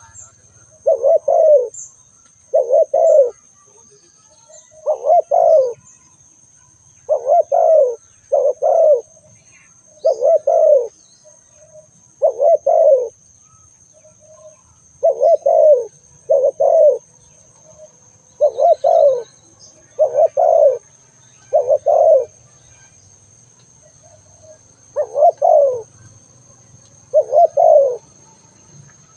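Spotted dove calling: short groups of low, paired coos repeated every second or two, about fifteen times. A faint steady high tone sits behind them.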